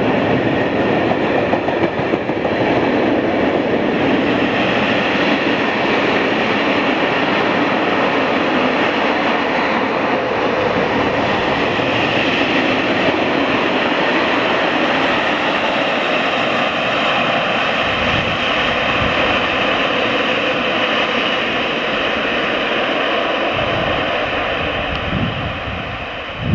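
A freight train of open coal wagons rolling past: steady rumble and rattle of the wheels on the rails, dropping away near the end.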